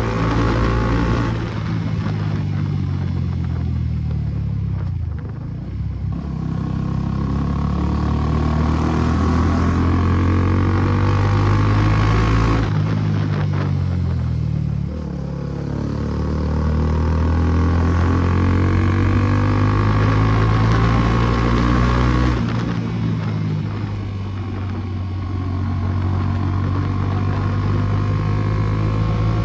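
Suzuki Gixxer SF250's single-cylinder engine running through an aftermarket Akrapovic exhaust, pulling up through the gears: the revs climb, then drop at each shift, about four times.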